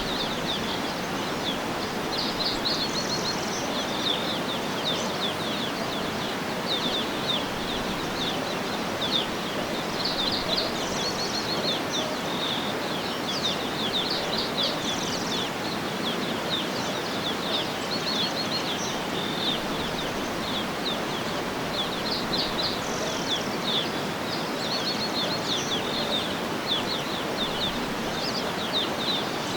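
Outdoor nature ambience: small songbirds chirping in repeated quick bouts of high notes over a steady, even rushing background noise.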